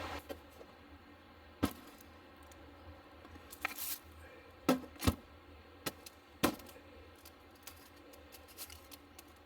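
Scattered sharp clicks and knocks of small objects being handled, six or seven in all, loudest about halfway through, with no steady sound between them.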